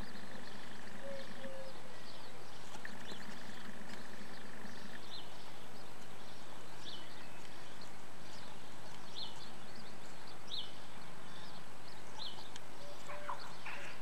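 Steady hiss from a nest-box microphone, with short high bird chirps repeating about once a second and a buzzing drone twice in the first five seconds.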